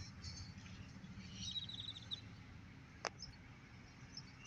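Faint background hum with a short, quick trill of high chirps from a bird about one and a half seconds in, and a single click near the end.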